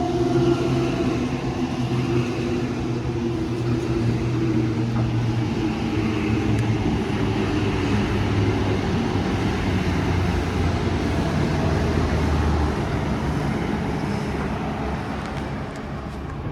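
NSW TrainLink Xplorer diesel railcar passing through the station, its diesel engines running with a steady note over wheel rumble. The engine note stops about twelve seconds in and the rumble fades near the end.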